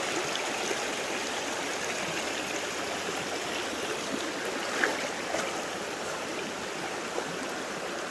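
Creek water flowing steadily over rocks, with a couple of brief sharper sounds about five seconds in.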